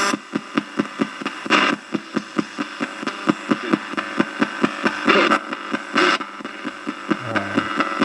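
Spirit box sweeping through radio stations: a fast, even run of clicks, about seven or eight a second, broken by brief snatches of static and broadcast sound, about a second and a half in and twice more around five to six seconds in.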